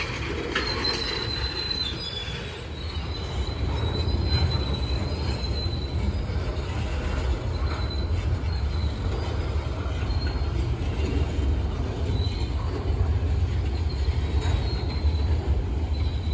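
Freight train rolling past: a steady low rumble of the cars, with a thin, high wheel squeal that comes and goes.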